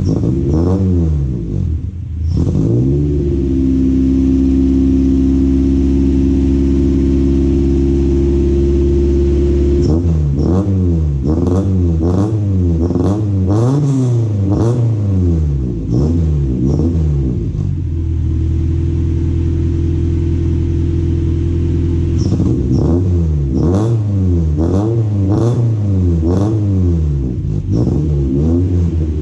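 Honda EG Civic engine heard through a K-Tuned 2.5-inch titanium straight-through muffler with no catalytic converter or resonator, revved from a cold start. It is blipped in quick, repeated revs, held at a steady raised rev for several seconds, blipped again, held again, then blipped once more.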